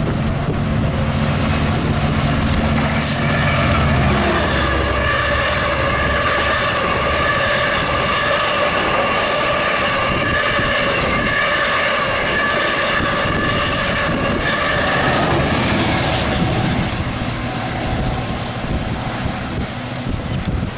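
Long Island Rail Road train moving through the station: a low rumble for the first four seconds, then a steady whine in several tones that fades out about three quarters of the way through.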